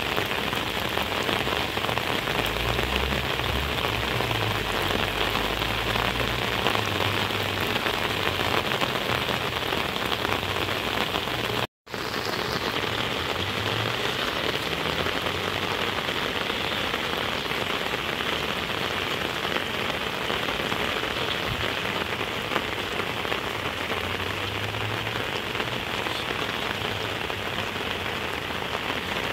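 Heavy rain falling steadily on rice paddies, a dense, even hiss. The sound drops out for a split second about twelve seconds in.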